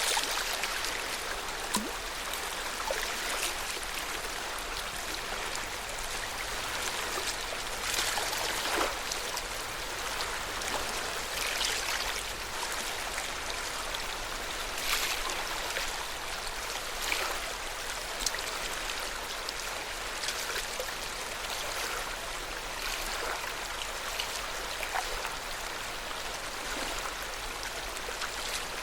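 Lake water lapping at the shore: a steady wash with frequent small splashes and trickles.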